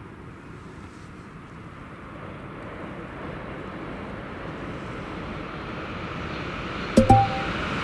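A train approaching, its running noise building steadily louder. About seven seconds in there is a brief, sharp double sound with a short tone.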